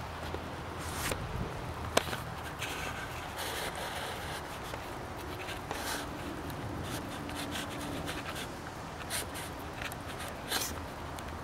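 Steady hiss of rain, with short rubbing and rustling noises coming and going and a sharp click about two seconds in.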